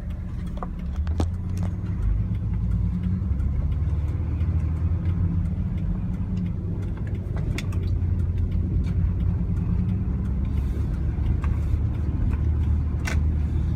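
A truck driving on city streets: steady low engine and road rumble, with a few faint clicks.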